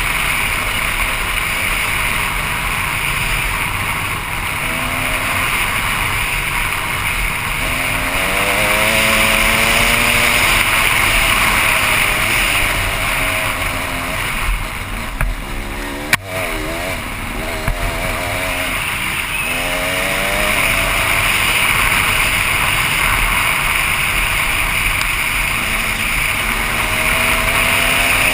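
KTM 300 EXC two-stroke dirt bike engine, revving up and down again and again while being ridden, over a steady rushing noise. A sharp knock comes about sixteen seconds in.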